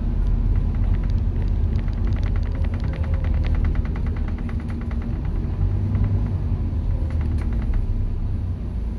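Scania K230UB bus's diesel engine running with a steady low rumble. About two seconds in comes a rapid rattling tick, several a second, that lasts about three seconds, and a few more ticks follow near the end.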